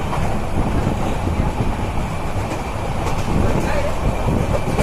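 Passenger train running along the track: a steady rumble of wheels on rails with a few faint clicks.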